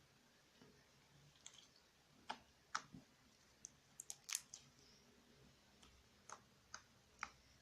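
Slime being squeezed and handled, giving a scattering of about a dozen sharp little clicks and pops at irregular intervals.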